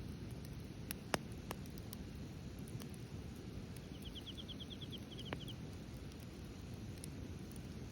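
Wood fire in a fire pit crackling, with a few sharp pops over a low steady background noise. About four seconds in, a small bird gives a quick trill of a dozen or so short, high notes.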